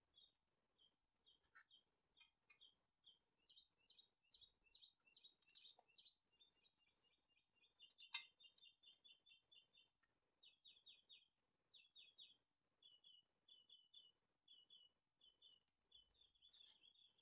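Faint bird song: quick runs of short, high chirps repeating in groups, with one sharp metallic click about eight seconds in.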